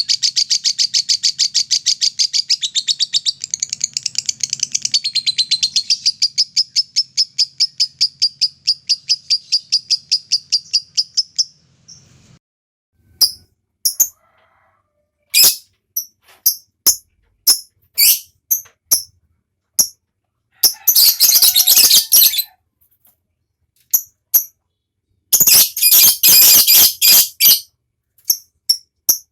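Lovebird's 'ngekek' song: a long, fast, rattling high trill that runs for about eleven seconds and then stops, followed by scattered sharp single chirps and two short harsh chattering bursts.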